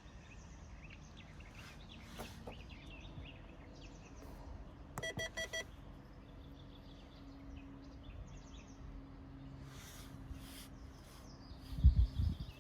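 Small birds chirping in the background, with four quick electronic beeps about five seconds in and a low thump near the end.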